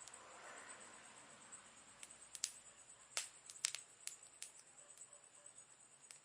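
Wood campfire crackling: scattered sharp pops and snaps at irregular intervals over a faint hiss.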